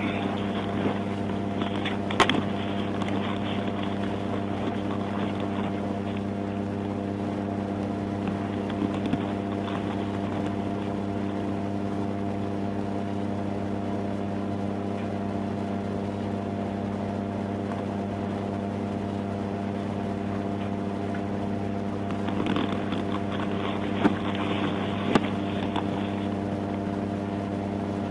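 Steady low engine hum of an idling vehicle, unchanging throughout, with a few faint clicks.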